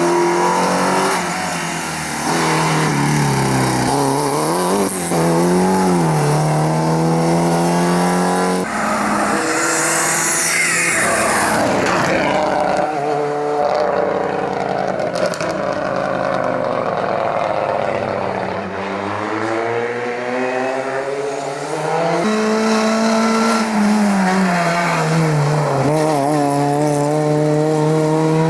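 Rally car engines revving hard, the pitch climbing and dropping again and again through gear changes and lifts. The sound changes abruptly twice, at about 9 and 22 seconds in, as one car gives way to the next.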